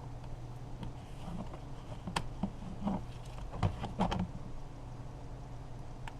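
Scattered light clicks and knocks of plastic car-door parts being worked loose by hand, bunched between about two and four seconds in, over a steady low hum.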